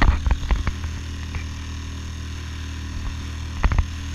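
Dinghy outboard motor running steadily under way through chop, with a quick series of sharp water slaps in the first second and a few more near the end.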